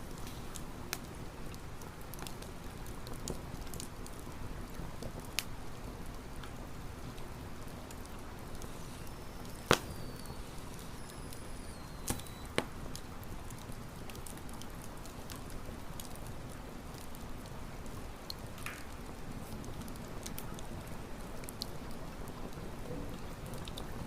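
Campfire crackling: a steady low rustle of burning wood with scattered small pops, the loudest about ten seconds in and two more around twelve seconds.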